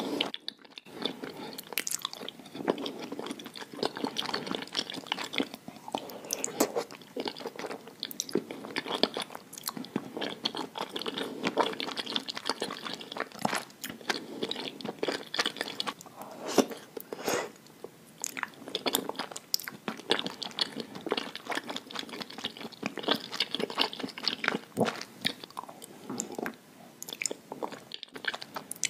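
Chewing and wet mouth sounds of eating a stretchy melted-cheese dish: many small, irregular sharp smacks and clicks, with brief pauses just after the start and near the end.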